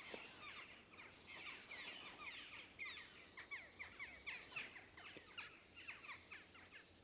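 Faint birdsong: a steady run of short, high chirps sliding down in pitch, several a second.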